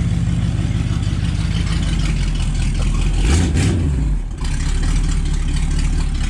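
1969 AMC Rebel's 290 V8 running unevenly and struggling to keep going. It revs up briefly about three seconds in, then sags for a moment before settling back.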